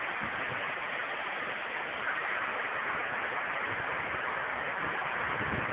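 Floodwater rushing steadily through a railroad washout, an even hiss with no change.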